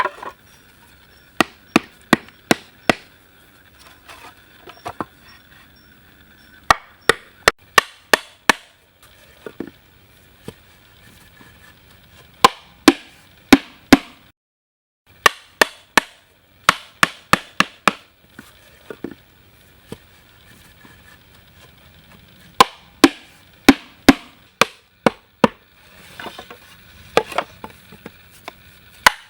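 A blade chopping into wood: runs of sharp strokes, several a second, broken by short pauses, with one abrupt drop to silence about halfway through.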